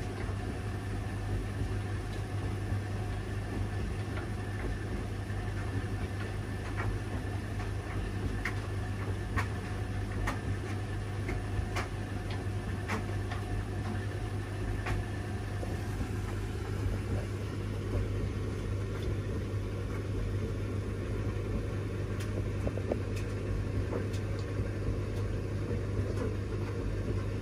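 Washing machine running with a steady low hum and scattered light clicks; about sixteen seconds in the sound turns duller and lower.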